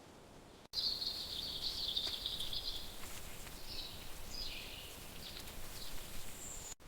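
Steady hiss of rain with high trilling and chirping calls. A trill lasts about two seconds, then several short chirps follow, and a brief high whistle comes near the end.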